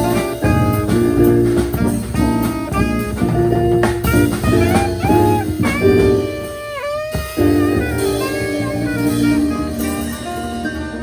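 Live jazz band playing: saxophone carrying the melody over drums and bass, with a downward pitch bend about seven seconds in.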